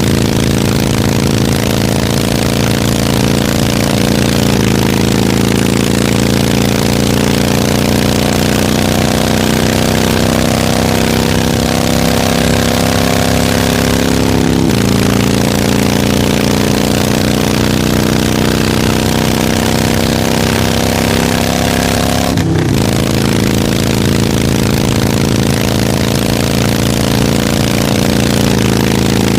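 Harley-Davidson motorcycle engine running steadily, its pitch creeping slowly upward and then dropping suddenly twice.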